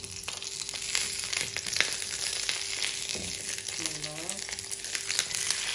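Olive oil sizzling and crackling steadily under an oats-and-egg omelette frying on its first side in a nonstick pan.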